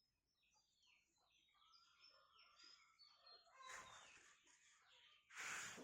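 Near silence with faint, scattered bird chirps, short notes sliding down in pitch, and two soft brief hissing swells, one past the middle and one near the end.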